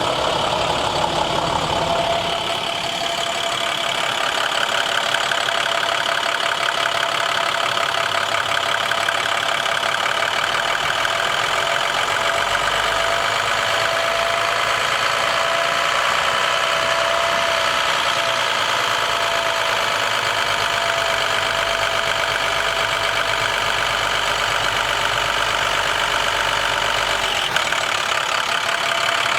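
International MaxxForce DT inline-six diesel engine of a 2012 International 4300 truck idling steadily.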